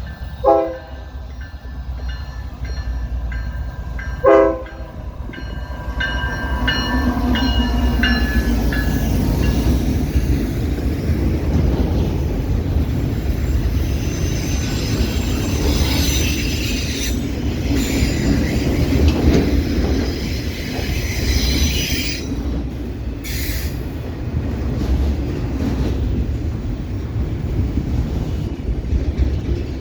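Two short locomotive horn blasts about four seconds apart, then a train rolling past with a steady rumble. Thin, high-pitched wheel squeal rings over the rumble during the first ten seconds or so.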